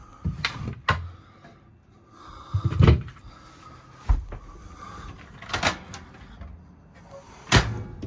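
Cabinet doors in a travel trailer being opened and shut: a series of about six separate knocks and latch clicks spaced a second or so apart.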